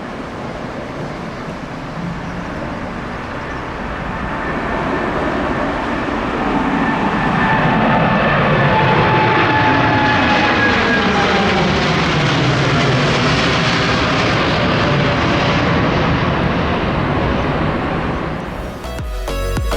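Boeing 787-9 jet engines at takeoff thrust, a dense roar that swells as the airliner passes and then eases slightly, with whining tones falling in pitch through the middle. Music starts near the end.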